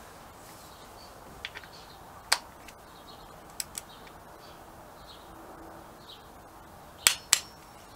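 Scattered sharp metallic clicks and taps from a torque wrench and hand tools tightening bolts. A pair of loud clicks near the end is the wrench clicking as it reaches its set torque.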